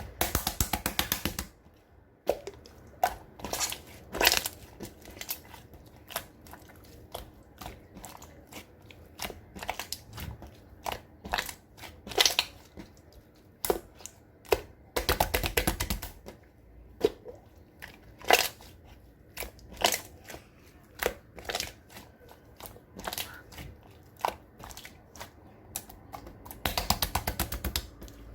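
Clear slime being pressed, poked and stretched by hand, making scattered sharp clicks and pops. Three longer runs of rapid crackling pops come at the very start, about halfway through and near the end.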